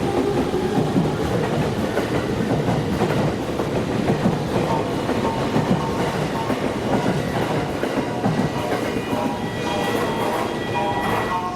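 E231-500 series electric commuter train running on the rails, its wheels clattering over the rail joints with a dense rumble. A few steady high-pitched tones join in near the end.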